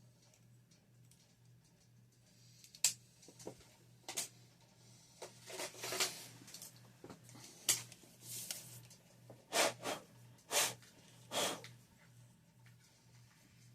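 Hands working with small objects: a scattered series of short scrapes, clicks and rustles, over a steady low electrical hum.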